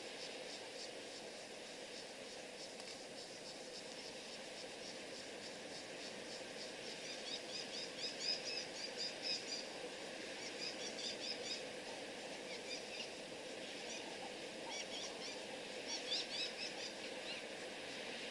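Dusk outdoor ambience: insects chirping in a rapid, even pulse, with louder clusters of quick high chirping calls coming and going twice.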